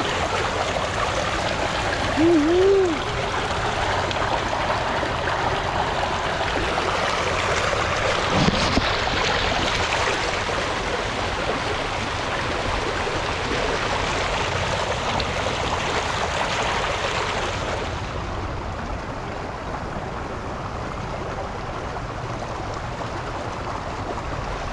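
Steady rushing of flowing water, like a stream or outflow, easing a little near the end. A brief high squeal, the loudest sound, about two seconds in.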